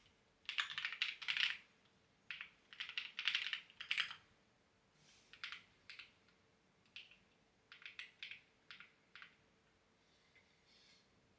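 Typing on a clacky computer keyboard: two quick runs of keystrokes, then a few scattered single and double key presses that stop a little past the middle.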